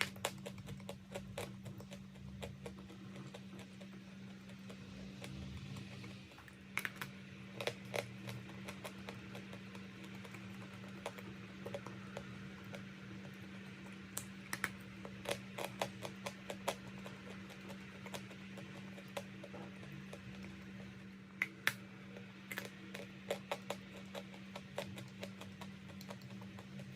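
Chalk being crunched: crisp, sharp clicks and cracks in irregular little clusters, over a steady low hum.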